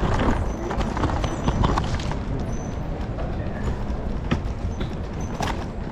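Outdoor street sound: a steady low rumble with scattered, irregular sharp knocks and clacks.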